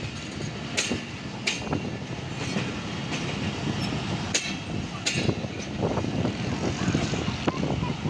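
Passenger train coaches rolling past close by with a steady rumble, their wheels clacking over rail joints in pairs a little under a second apart as each pair of bogies crosses.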